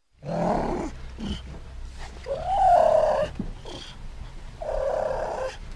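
Cougar (mountain lion) vocalising: three calls about a second apart, each lasting about a second, the middle one loudest with a pitch that rises and then falls, over a steady low rumble.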